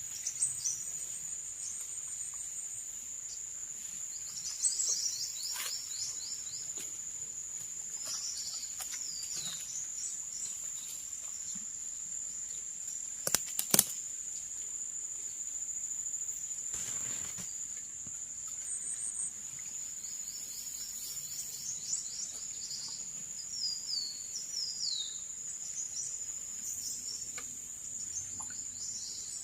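Forest ambience: insects keep up a steady high-pitched drone while birds call now and then in quick runs of chirps. Two sharp clicks or knocks come about halfway through.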